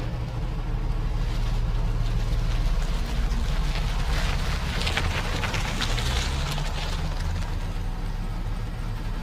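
A car being driven: steady engine and road rumble with an even rushing noise of air and tyres, which turns crackly for a couple of seconds in the middle.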